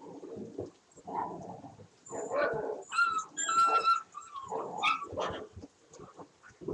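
Catahoula leopard dogs barking, yipping and whining in a run of short, rough vocal bursts, typical of rowdy play, with high-pitched whining yips about halfway through.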